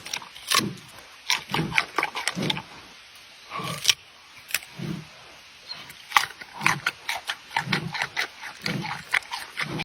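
Giant panda chewing food with loud crisp crunches and low chomps, irregular, with a brief pause about three seconds in.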